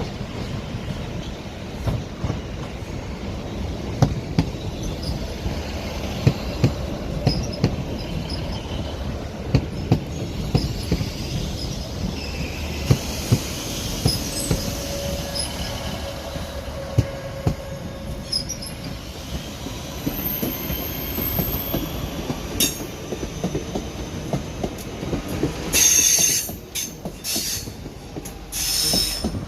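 Train rolling slowly through the station over pointwork, its wheels clicking over rail joints all through with brief wheel squeals. There are two loud, harsh bursts near the end.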